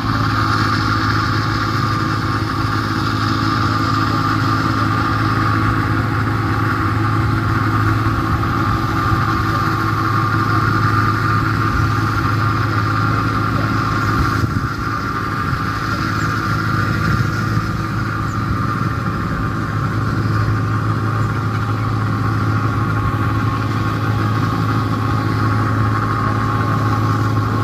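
New Holland 1545-S combine harvester running steadily, a constant loud engine and machinery drone.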